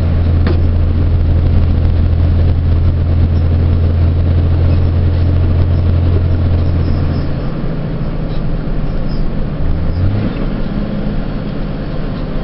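Truck engine heard from inside the cab, a steady low drone under road noise. About seven seconds in the drone drops away, comes back briefly, then gives way to rougher running noise.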